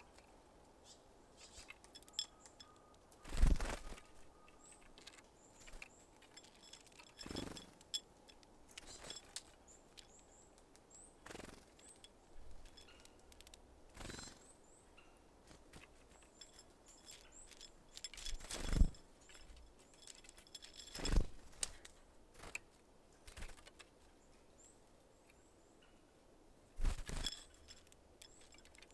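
Small birds at a feeder: about seven short, sharp knocks and flutters a few seconds apart, from birds landing on and working at the feeding station, with faint high chirps in between.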